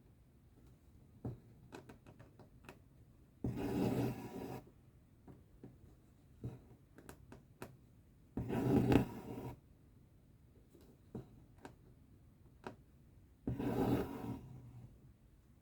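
Cross-stitch thread being pulled through the fabric three times, each a rasping pull about a second long, with light clicks and taps of the needle in between.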